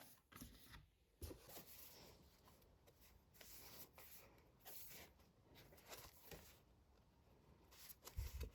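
Faint rustling and soft handling sounds, with a short low knock near the end.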